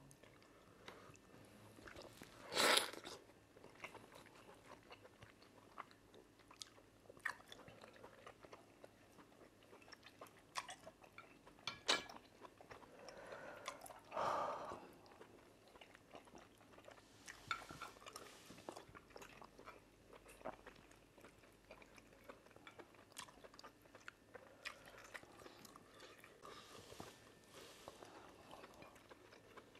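Faint close-miked mukbang eating sounds of cocoyam fufu and ofe nsala soup eaten by hand: chewing, with scattered small mouth clicks and smacks. A sharper, louder smack comes about three seconds in and another around the middle.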